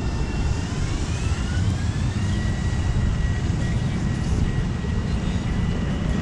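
Long Island Rail Road electric train accelerating along the platform. Its motor whine rises in pitch over about a second and a half, then holds steady over the low rumble of the wheels on the rails.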